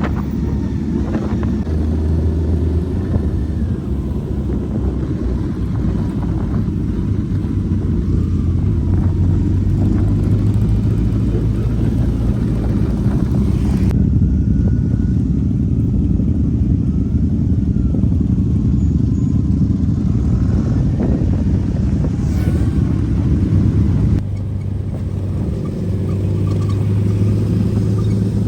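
Motorcycle engines running with a steady, deep low rumble. The sound shifts abruptly about halfway through and again near the end.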